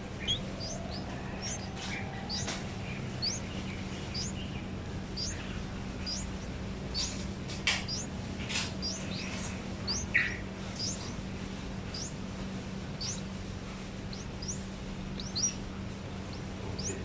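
Small birds chirping: short, thin, high notes, each quickly falling in pitch, repeated irregularly about once or twice a second, over a steady low hum.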